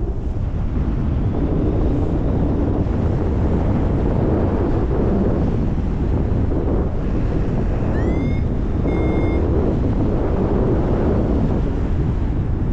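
Wind rushing over the microphone in paraglider flight, a steady low rush. About eight seconds in, the flight variometer gives a short tone that rises in pitch, then a brief steady beep a second later, its signal of rising air.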